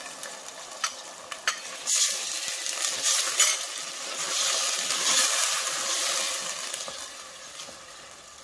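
Chopped tomatoes and onions sizzling in hot oil in a stainless steel pot while a spoon stirs them. A couple of light knocks of the spoon come in the first two seconds. The sizzle swells about two seconds in and dies down near the end as the tomatoes are stirred through.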